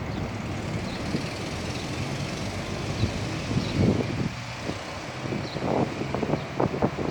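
Steady traffic noise under strong wind, with gusts buffeting the microphone in irregular low rumbles from about halfway through.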